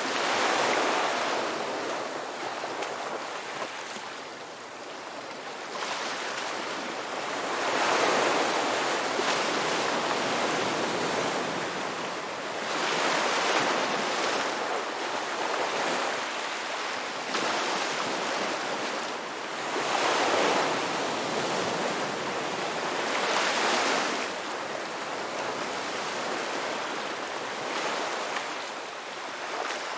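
Ocean waves breaking and washing on a beach, a steady wash of surf that swells every few seconds as each wave comes in.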